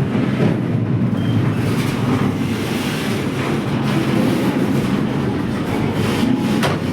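A moving train: a steady rumble of wheels running on the rails, with a brief click near the end.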